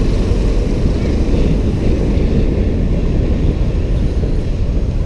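Steady, loud wind rumble on the microphone with road and engine noise while riding a motorbike through city traffic.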